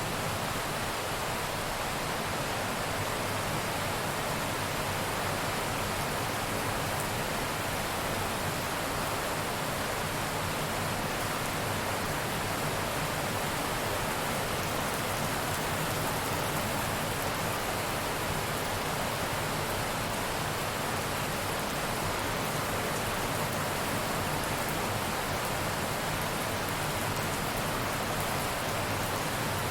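Heavy rain falling steadily, an even hiss of rainfall that holds at one level throughout.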